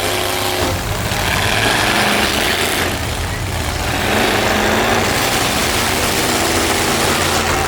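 Big demolition-derby trucks' engines running loudly in a steady, dense low drone.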